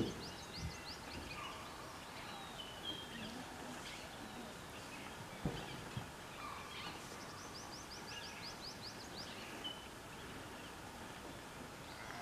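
Wild birds calling: two rapid runs of high, downward-sweeping notes, one near the start and one about seven seconds in, with scattered chirps between, over a faint outdoor background. A couple of brief knocks are heard, one about five and a half seconds in.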